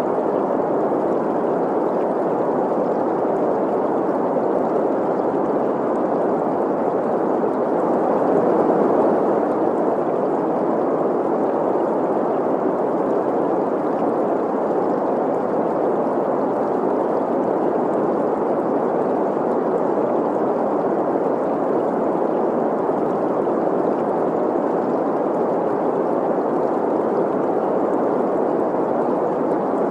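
Green noise, a steady hiss centred in the middle range, blended with the flow of a stream. It swells slightly about nine seconds in.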